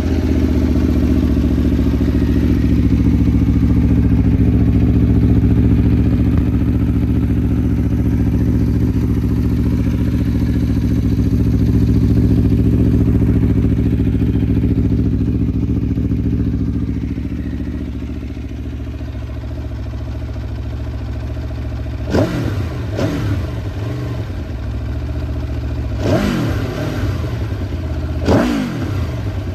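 Aprilia V4 motorcycle engine with an Akrapovič exhaust idling just after starting, settling to a slightly lower idle partway through. Near the end the throttle is blipped three times, each a short rev up and back down.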